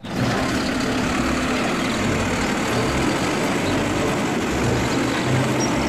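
Recorded truck engine sound running steadily with a low rumble, switching on and off abruptly like a played-back sound effect.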